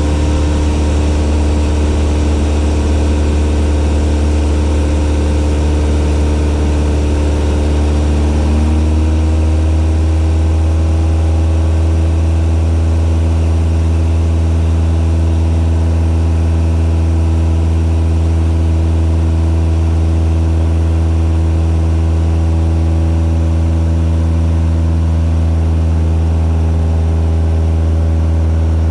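Cessna 172's piston engine and propeller running steadily, its pitch stepping up slightly about eight seconds in and then holding.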